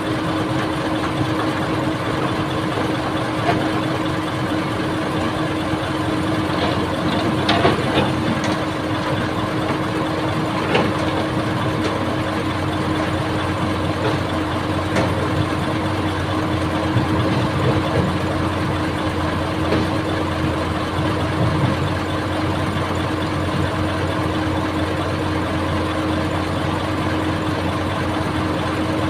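Old excavator's engine running steadily, with a few sharp knocks scattered through, the loudest about seven to eight seconds in.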